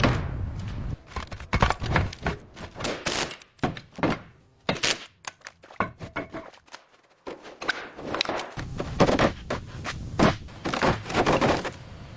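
Irregular knocks and thuds, clustered several to a second, with a quieter stretch in the middle before a second run of knocks.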